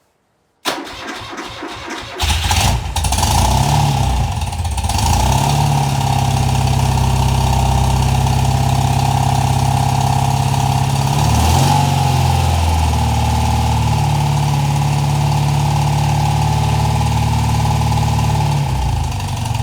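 A 1978 BMW R100S's air-cooled flat-twin engine is cold-started on full choke. The electric starter cranks for about a second and a half before the engine catches, then it runs steadily at a fast choke idle, with the note shifting briefly about halfway through.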